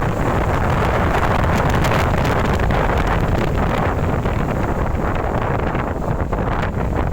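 Strong storm wind blowing steadily and buffeting the microphone with a heavy low rumble, scattered with small crackles.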